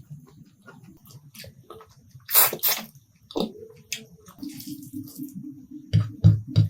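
Wet, squelching eating sounds close to the microphone: smacks and clicks of a mouthful of curry being taken, loudest a little over two seconds in. Near the end comes rhythmic chewing, about three chews a second.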